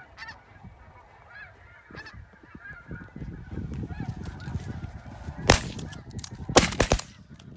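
Geese honking faintly and repeatedly, then a quick volley of three or four shotgun blasts about five and a half seconds in, as hunters fire on incoming geese.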